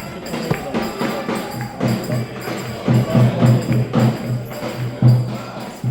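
Music for a village wedding folk dance (oyun havası), with a quick, steady low drum beat that is the loudest part, and jingling percussion above it.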